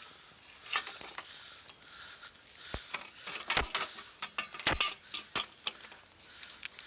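Irregular footsteps on a trail: a scatter of short clicks and light knocks, a few sharper ones in the middle.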